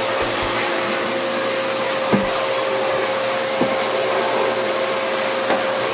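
Vacuum cleaner running steadily with a constant whine, sucking up old dirt from the space under the counter. It bumps and knocks briefly a few times, about two seconds in and again a little later.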